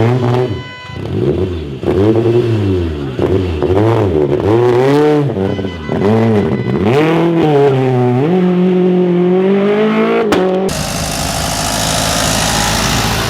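Rally car engine revving hard, its pitch rising and falling again and again with throttle lifts and gear changes, then pulling in one longer rising run. A sharp crack comes just after ten seconds, and then the sound changes abruptly to a steady rushing noise.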